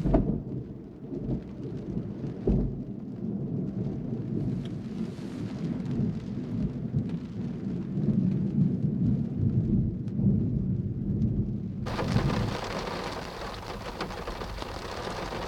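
Thunder from a severe thunderstorm: a sudden clap at the start, then a long low rolling rumble with several swells. Near the end, steady rain hiss cuts in abruptly.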